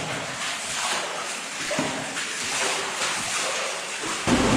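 Underground cave stream rushing, a steady hiss of running water. About four seconds in it turns suddenly louder and deeper.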